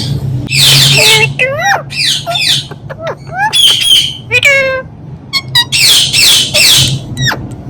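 Indian ringneck parrot calling: several loud, harsh squawks mixed with short pitched chirps and whistled notes that bend up and down in pitch.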